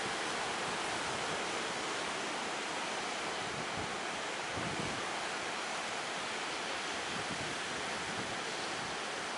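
Ocean surf washing steadily, with wind buffeting the microphone in a few low rumbles about four to five seconds in.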